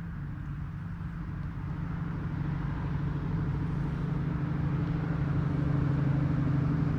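A road vehicle's engine hum, steady in pitch and growing louder as it approaches.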